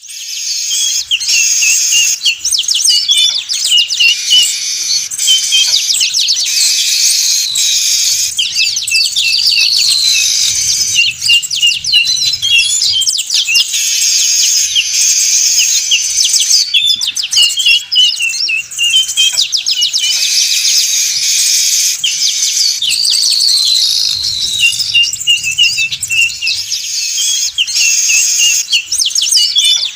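A noisy flock of manyar weaver birds chattering and chirping without pause, many calls overlapping: a bird-trapping lure recording.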